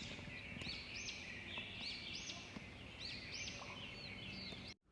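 Small songbirds calling outdoors: short, high arching chirps repeated about once a second over a faint background hum, cutting off just before the end.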